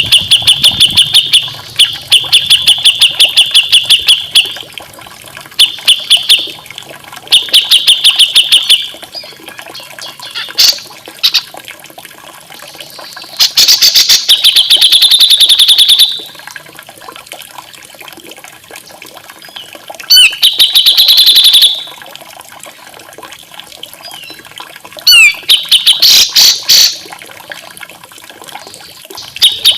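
Recorded songbird song in short bursts of very fast, rapid-fire repeated notes, several bursts a few seconds apart, over a faint steady trickle of running water.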